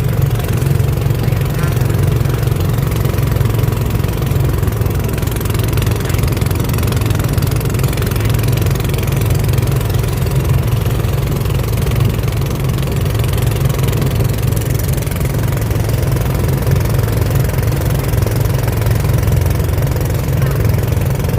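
Boat engine running at a steady, unchanging pace, a low engine note with no revving or change in speed.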